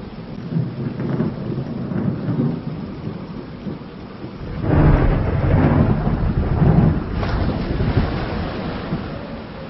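Steady rain falling, with a long roll of thunder that swells about halfway in, rumbles for roughly three seconds and slowly dies away.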